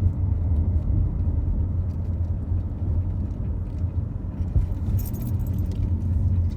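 Minivan cabin noise while driving: a steady low road and engine rumble, with a brief metallic jingle about five seconds in.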